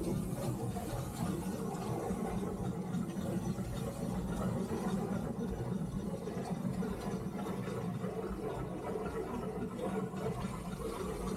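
Steady mechanical rumble in the cab of a three-truck Shay geared steam locomotive while it runs.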